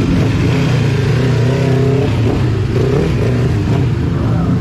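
Motorcycle engine running steadily, its pitch wavering up and down a little.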